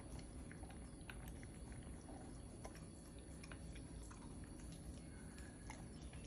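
A puppy chewing and eating its food: faint, irregular clicks and smacks of chewing.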